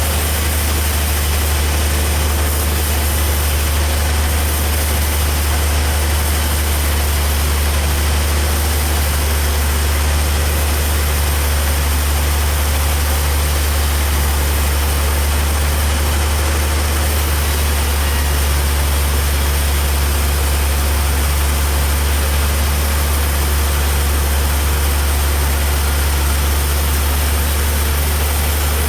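Heavy sawmill machinery running steadily: a loud, even low hum with a hiss over it.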